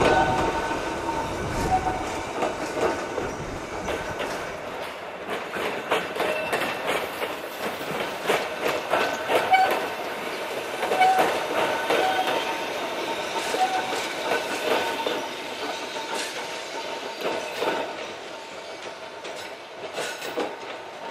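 Narrow-gauge (762 mm) electric train of the Yokkaichi Asunarou Railway running slowly past, its wheels clicking over rail joints, with short high squeals on and off. A heavier rumble at the start dies away within a couple of seconds, and the sound fades near the end.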